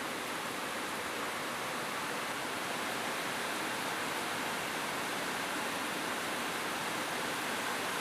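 Steady rain falling on a roof: an even hiss with no single drops or thunder standing out.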